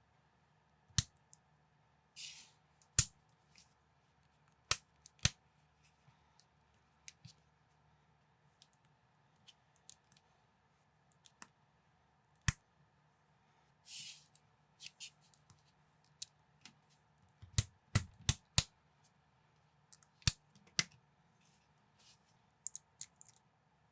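Plastic Lego-compatible building bricks clicking and snapping together at irregular intervals, with a quick run of clicks about three quarters of the way through. Twice there is a brief plastic rustle.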